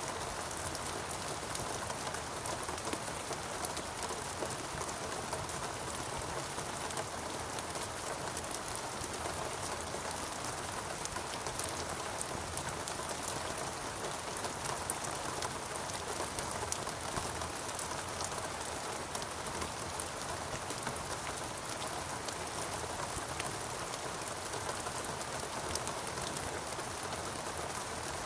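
Steady rain falling, with a constant wash and many small drop impacts pattering throughout.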